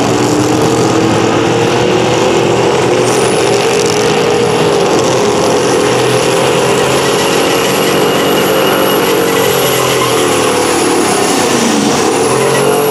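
A pulling vehicle's engine running hard under load during a sled pull. Its pitch climbs over the first few seconds, holds, dips about five seconds in and again near the end, then rises, with a high whistle running above the engine.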